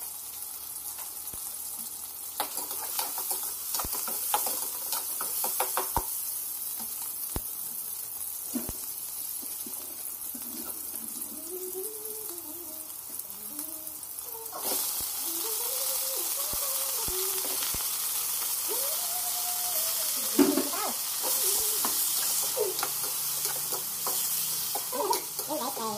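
Chopped vegetables and then chicken and pork pieces sizzling in hot oil in a nonstick wok, with scattered clicks and scrapes of a metal spoon stirring. The sizzle gets louder about halfway through.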